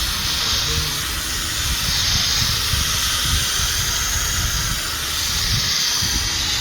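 Electric drill spinning a buffing pad across a plastic headlight lens: a steady motor whir with a hissing scrub from the pad.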